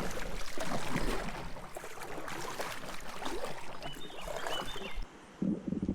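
Water splashing and swishing around a fishing kayak on a creek, with many short, irregular splashes and knocks.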